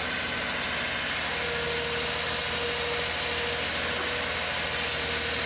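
Heavy vehicle engine running at a steady speed.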